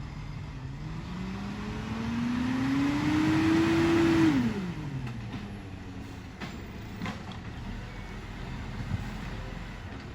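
Iveco Stralis garbage truck's diesel engine revving up steadily for about three seconds, then dropping off sharply about four seconds in and settling back to a lower running note.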